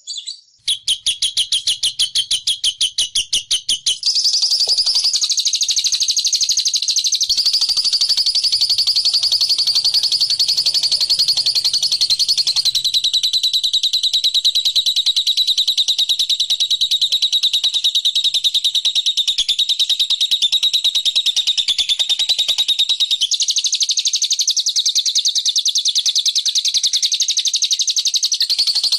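Bird-lure recording of a songbird trilling: high, evenly repeated notes in a fast rhythm. It starts as a run of separate pulses, then becomes a dense, unbroken trill about four seconds in, shifting its pitch pattern several times.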